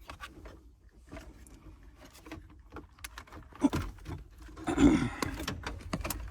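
Scattered clicks and knocks of hand work on a van's dashboard control panel, with the loudest clatter a little under four seconds in and again about five seconds in.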